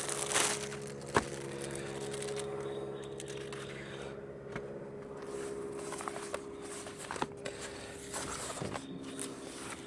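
A few light knocks, clicks and scrapes of equipment and packaging being handled, the sharpest knock about a second in, over a steady hum that holds several constant pitches.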